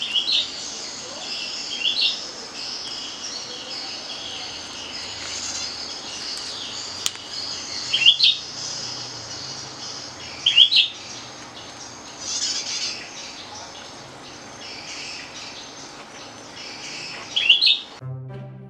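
Birds calling outdoors: one bird gives a short, sharp rising call five times, a few seconds apart, over a steady high chorus of background birdsong. Music comes in near the end.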